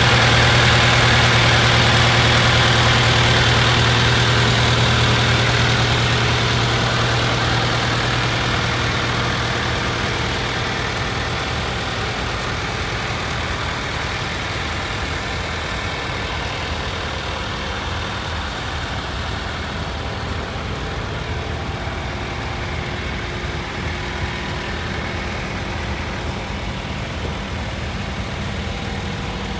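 A farm tractor's engine running steadily, loud at first and fading over the first ten seconds or so as it moves away, then carrying on at a lower, even level.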